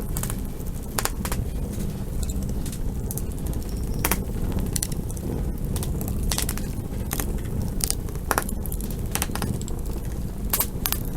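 Campfire burning, with wood crackling and popping in sharp snaps at irregular intervals over a steady low rush.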